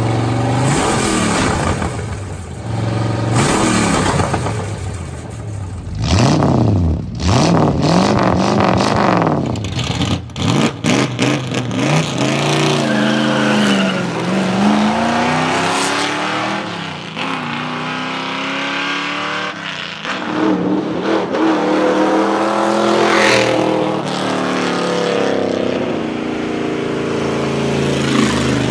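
Ford Galaxie 500's 7-liter V8 engine revving, its pitch rising and falling again and again, broken by several abrupt cuts in the first half.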